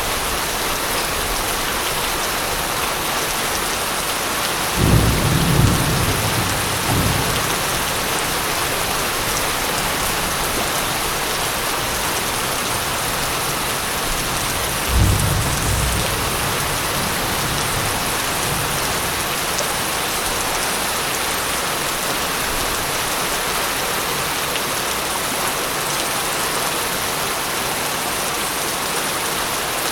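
Steady heavy rain falling, with two low rolls of thunder: a longer one about five seconds in and a shorter one about fifteen seconds in.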